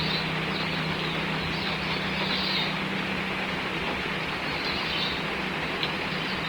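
Steady hiss of falling rain over a low, even hum, with faint bird chirps now and then.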